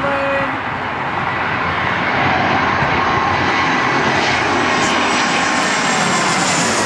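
Airliner's engines passing close by: a loud, steady rush with a high whine through it, building about two seconds in and then holding.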